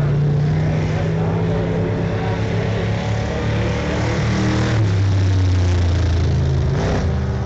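Vintage race cars' engines running on the track, a steady drone whose pitch drops about five seconds in.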